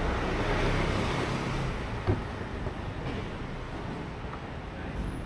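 City street traffic noise: a vehicle passing close by, its noise swelling and then fading over the first two seconds, with a single knock about two seconds in.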